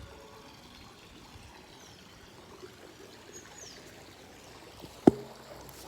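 Steady rushing noise, with one sharp knock about five seconds in.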